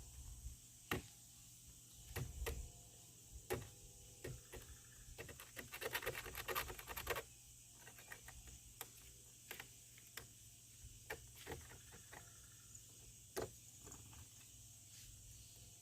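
Faint scattered scrapes and taps of broken fiberglass and debris being cleaned out of a hole in a canoe hull, with a denser stretch of scraping about six seconds in.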